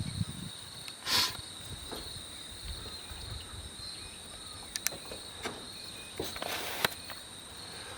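Steady high-pitched trilling of crickets or other insects, in two constant tones. A brief rustle comes about a second in, and there are a few sharp handling clicks near the middle and toward the end.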